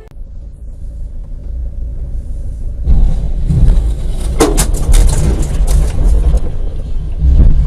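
Car driving noise on a dash-cam recording, a low rumble that grows louder. About three seconds in it turns suddenly loud and noisy, and a cluster of sharp clatters follows about a second later.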